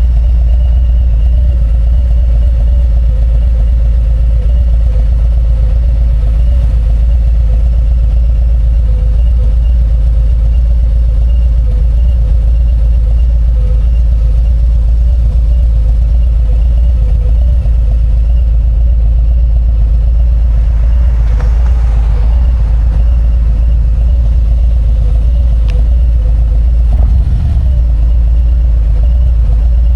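Harley-Davidson Road Glide's V-twin engine running steadily with a heavy low rumble, with a brief rise of noise about two-thirds of the way through.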